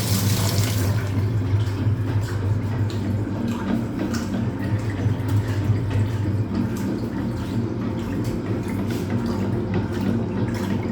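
Hoover Automatic 820 washing machine running with a steady motor hum while water churns and splashes in the tub; a rushing hiss of water stops about a second in.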